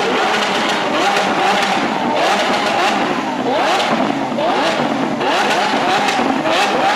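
Lamborghini Aventador V12 engines revving again and again in quick overlapping blips, more than one car at once, with frequent sharp exhaust pops and cracks between the revs.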